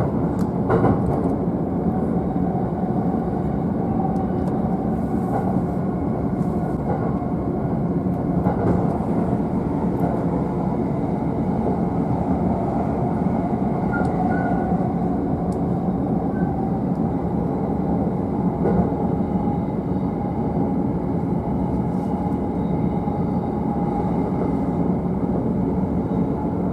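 Running noise of a JR East E531-series electric train heard inside the upper deck of a double-deck car: a steady rumble with a faint steady whine and a few light clicks.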